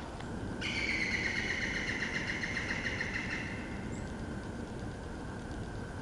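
A bird calling in woodland: one long call that starts about half a second in, drops slightly in pitch and fades out after about three seconds, over a low steady background noise.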